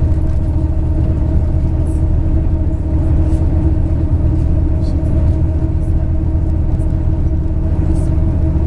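Inside a MAZ-103 bus under way: the diesel engine runs at steady revs with a constant low drone and road noise, and a few faint rattles.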